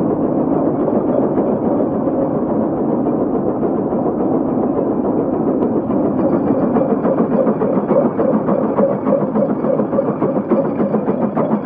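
Case 150 steam traction engine working under load, its exhaust chuffing in a steady, even beat that becomes more distinct in the second half.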